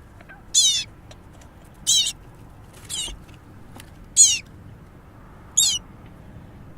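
A baby bird giving shrill, high cheeping calls, five short calls about a second and a bit apart: a hungry chick begging for food.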